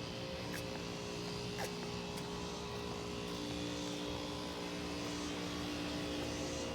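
Central air conditioner condensing units running: a steady hum of compressors and outdoor fans, with a new, stronger hum tone joining about halfway through.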